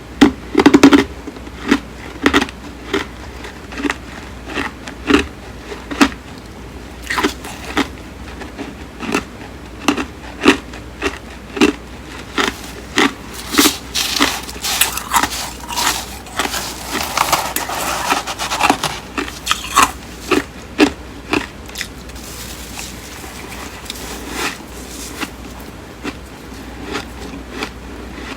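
Close-miked biting and chewing of crisp, flaky freezer frost, a run of sharp crunches about once or twice a second. The crunching is densest and loudest in the middle, then eases into quieter chewing near the end.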